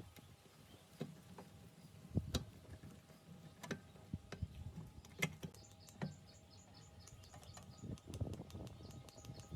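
A few scattered sharp clicks and light knocks, with faint bird chirping in the background from about six seconds in.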